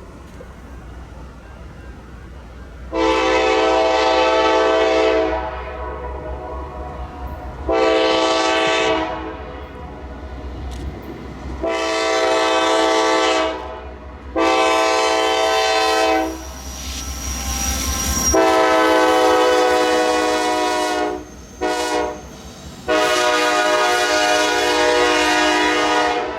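Locomotive air horn sounding a series of blasts, mostly long with one short, as a train approaches a grade crossing, over a low rumble that stops about two-thirds of the way through.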